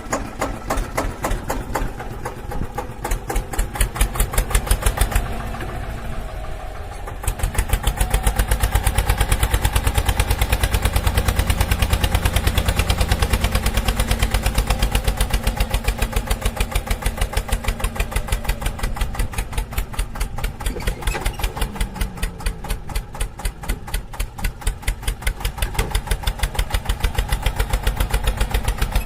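Tractor engine running with a steady, even throb. It grows louder and heavier about seven seconds in, then eases off a little after about fourteen seconds.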